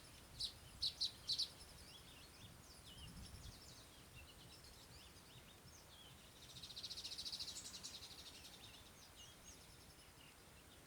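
Small birds calling: a few sharp, high chirps near the start, scattered short chirps after them, and a fast buzzy trill about six and a half seconds in.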